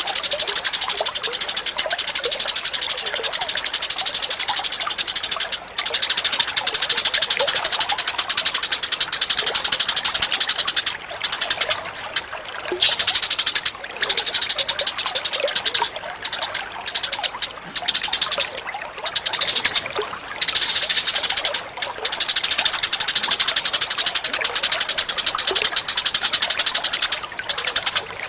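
Recorded songbird calls used as a training track for cage birds: a loud, very rapid high-pitched chattering trill that runs in long stretches, broken by short pauses from about eleven seconds in.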